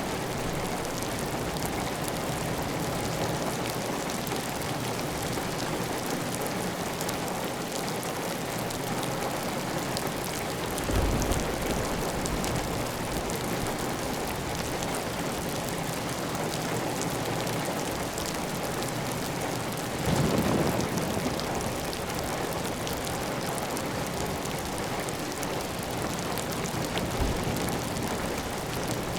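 Steady heavy rain on a tiled roof, with water running off the roof edge. Two brief low rumbles rise above it, about a third of the way in and again about two-thirds of the way in.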